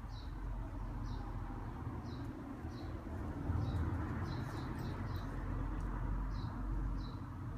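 Small birds giving short, high chirps that fall in pitch, about one or two a second and bunched more closely near the middle, over a steady low rumble.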